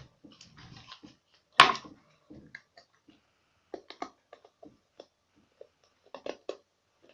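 Mouth sounds of someone sucking and chewing sour hard candies: scattered wet clicks and smacks, with one louder, sharper sound about a second and a half in.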